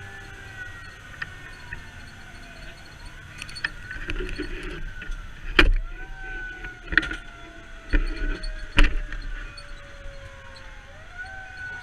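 Fire engine siren wailing, each cycle rising quickly and sliding slowly down in pitch, over a low engine rumble. Several loud sharp knocks come about halfway through.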